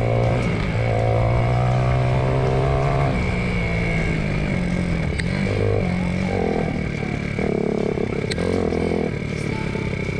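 Hawk 250 dual-sport motorcycle's single-cylinder engine running while riding, its note holding steady, then dropping and picking up again several times through the middle. A couple of sharp clicks stand out about five and eight seconds in.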